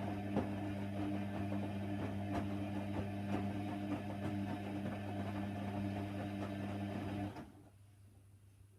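Hoover Nextra HNWL 7146 washer dryer running: a steady low hum with light irregular clicks that stops suddenly about seven seconds in.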